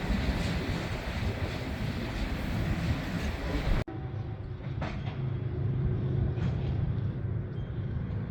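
Freight train running by with steady rolling rail noise; about four seconds in, the sound cuts abruptly to a steady low diesel locomotive rumble with a few faint clicks.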